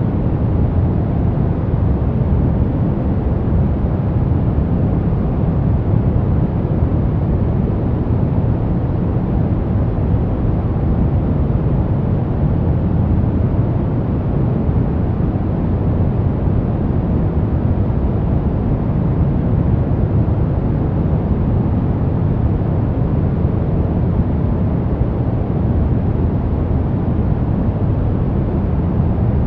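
Steady, unchanging sleep noise for babies, deep and low-pitched, with most of its weight in the bass and little hiss at the top.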